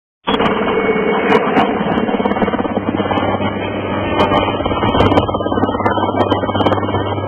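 IZh two-stroke motorcycle engine running loudly with a fast, rough pulsing exhaust note, starting abruptly just after the start.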